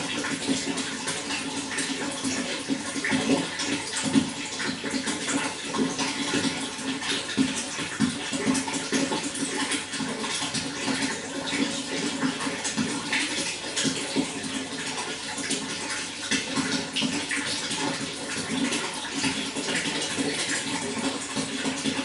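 Running water, flowing steadily with a constant rush and many small irregular splashes and gurgles.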